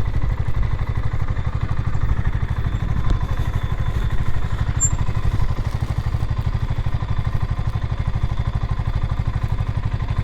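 BSA Gold Star 650 parallel-twin motorcycle engine running slowly with a steady, even beat, with no revving.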